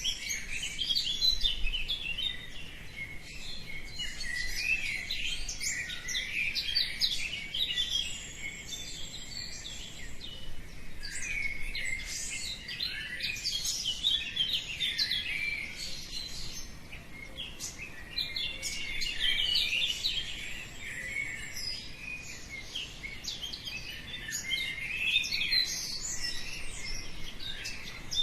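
Many small birds singing and chirping together, a dense, overlapping dawn chorus of quick high chirps and warbles.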